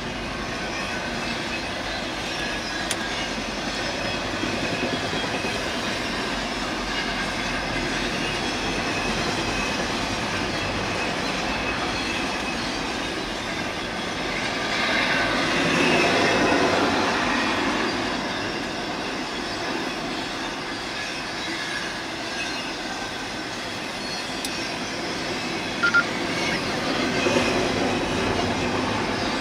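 CSX intermodal freight train, trailers and containers on flatcars, rolling past at speed: steady running noise of wheels on rail that grows louder about halfway through, with a single sharp clank near the end.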